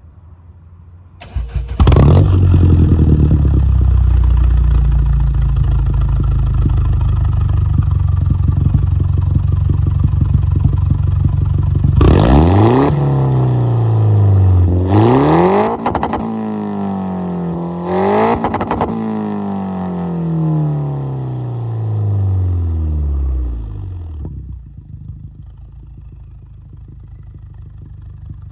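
Peugeot RCZ THP200's turbocharged 1.6-litre four-cylinder engine through a straight-through direct-pipe exhaust, starting about a second in and idling loudly. It is then revved three times, the pitch rising and falling each time, before settling back to idle. The sound dies down near the end.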